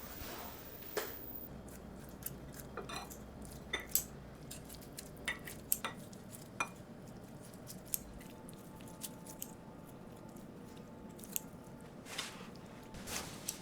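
Scattered light clicks and taps of utensils against dishes, about a dozen spread out with pauses between them.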